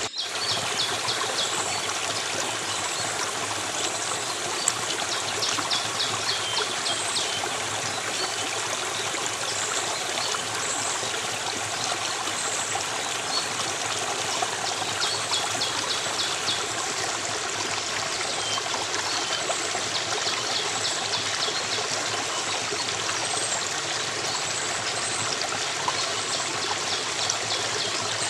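Stream water running and splashing steadily. Short, high, rapid trills come and go several times over it.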